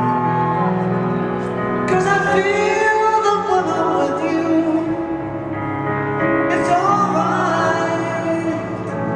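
Slow live ballad: a woman sings two long, held phrases over soft, sustained instrumental accompaniment, with the echo of a large arena.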